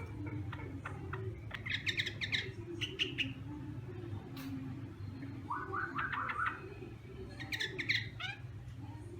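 Chinese hwamei (hoạ mi) singing in four short bursts of rapid repeated notes with pauses between, over a steady low hum.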